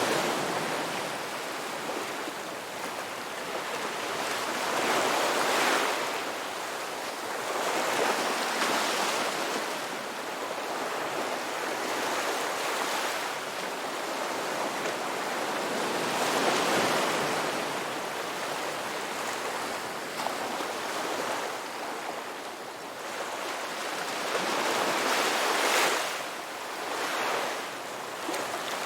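Ocean surf: a steady rush of waves that swells and ebbs every few seconds.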